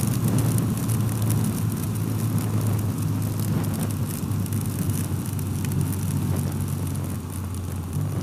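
2024 BMW R12's boxer-twin engine running steadily under way, with a constant hiss of wind and road noise over it.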